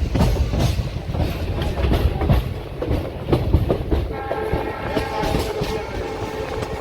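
Train running, its wheels clattering over the rail joints; about four seconds in a train horn sounds and is held.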